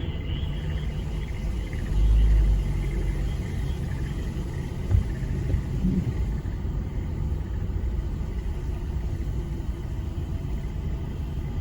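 A steady low rumble that swells briefly about two seconds in, with a single knock about five seconds in. A faint frog chorus fades out in the first second and returns near the end.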